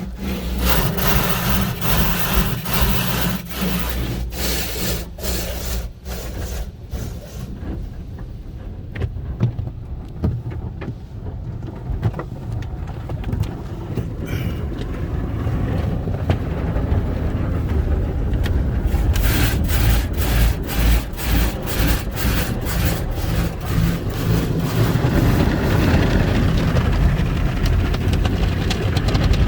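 Automatic car wash tunnel heard from inside the car: wash brushes rapidly slapping and rubbing against the body over a steady low rumble of the equipment. The slapping eases for several seconds in the middle and picks up again.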